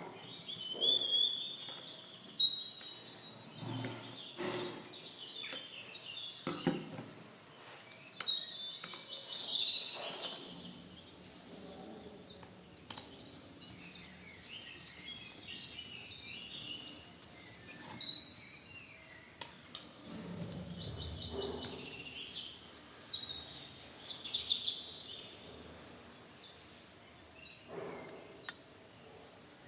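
Birds chirping and twittering in short, repeated calls, with scattered clicks and knocks.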